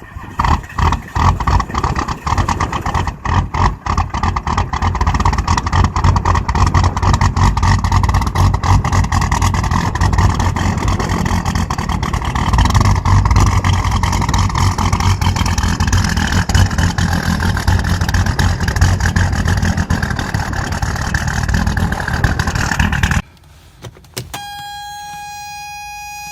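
Diesel engine cold-starting in deep frost: it fires unevenly for the first few seconds, then runs loud and steady until the sound cuts off abruptly near the end. A steady electronic tone follows in the last seconds.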